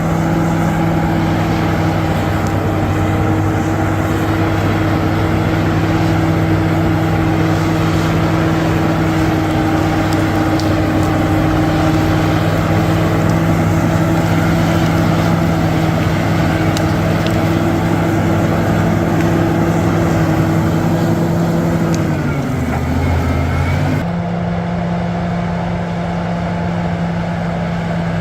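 Bulldozer's diesel engine running steadily at a constant pitch; about 22 seconds in the pitch drops for a couple of seconds, then the engine runs steady again.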